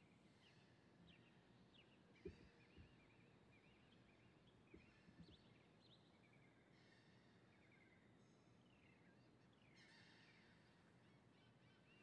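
Faint outdoor ambience with scattered bird calls: short chirps and whistles throughout, and a few soft knocks about two and five seconds in.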